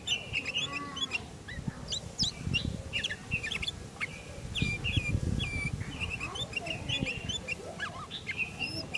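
Sooty-headed bulbul (kutilang) calling: a busy run of short, sharp chirps and whistled notes, one after another without a break, over a low rumbling noise that swells twice.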